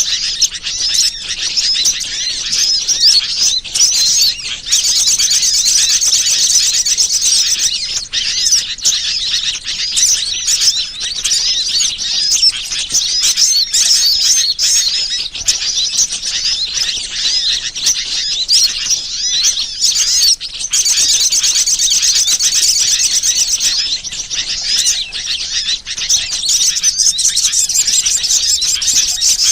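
Dense chorus of small songbirds chirping and twittering without pause, with stretches of fast, high trills: a recorded bird-lure call track played to attract wild birds.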